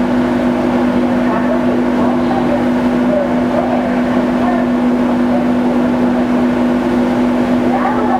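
Ferry engines running with a steady, unchanging droning hum.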